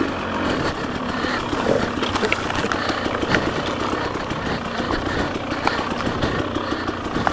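Off-road dirt bike engine running at a steady, low throttle, with frequent short clicks and knocks from the bike working over rough trail.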